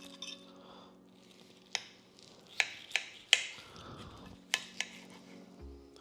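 Crunching as crispy pork-rind-coated fried chicken skin is bitten and chewed: about six sharp crackles, the loudest about three seconds in, over soft background music.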